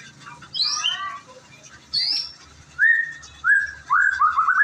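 White-rumped shama singing in clear whistled phrases: a quick falling run of notes, a single high note, then a quickening series of short rising whistles.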